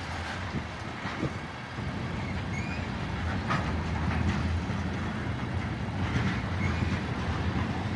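Long freight train of tank cars rolling slowly past: a steady low rumble of steel wheels on the rails, with a few faint clicks.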